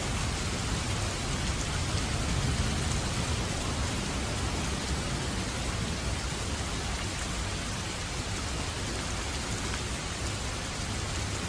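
Heavy rain falling steadily, an even hiss, with a low rumble underneath that swells briefly about two to three seconds in.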